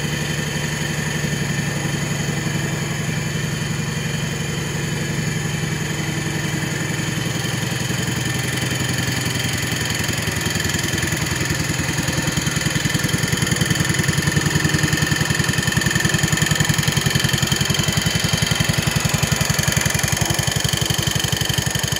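John Deere 140 garden tractor engine running steadily, with a steady high-pitched noise over the engine note that the owner guesses comes from a bearing at the back. It gets louder about halfway through.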